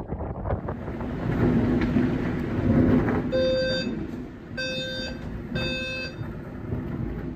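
Storm noise, a loud rushing of wind and rain, then an electronic alarm starts beeping about once a second over it a little past the middle.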